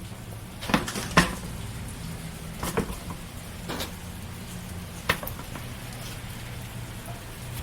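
A steady low hum with a handful of sharp, irregular knocks or clicks, the loudest about a second in.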